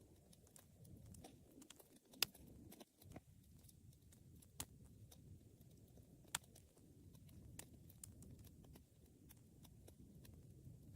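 Wood fire burning with a faint low rumble of flames and scattered sharp crackles and pops, the loudest pop about two seconds in.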